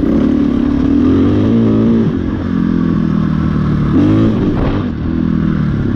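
KTM 500 EXC's single-cylinder four-stroke engine running under the rider's throttle, its pitch rising and falling as the throttle is worked, with a rev-up about a second and a half in and another around four seconds.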